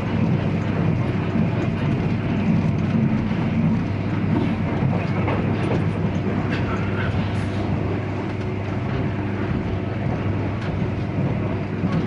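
Steady running noise inside a 485 series electric train carriage under way: a rumble of wheels on rail with a few faint clicks.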